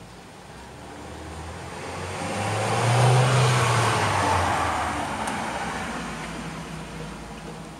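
A road vehicle passing by: engine and tyre noise builds to a peak about three seconds in, then slowly fades.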